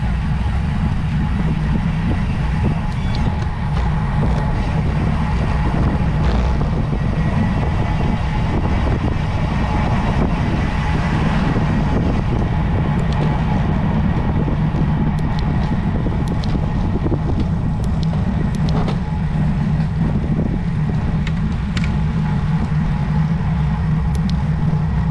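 Steady wind buffeting on the microphone of a camera riding along on a road bicycle, with road and tyre noise underneath and a few faint ticks.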